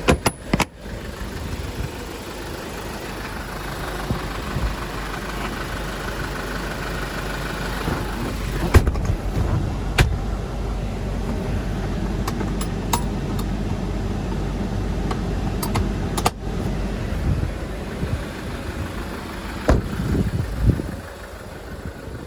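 Hyundai Porter II refrigerated truck idling, its engine running steadily with the freezer unit switched on and cooling. A few sharp clicks and knocks sound over it, about 9, 10 and 16 seconds in.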